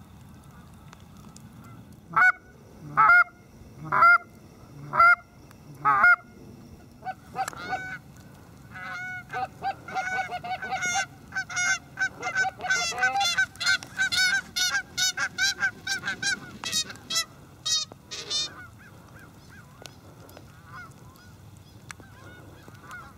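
Canada geese honking: five loud honks about a second apart, then many geese calling over one another in a busy chorus for about ten seconds before it dies away.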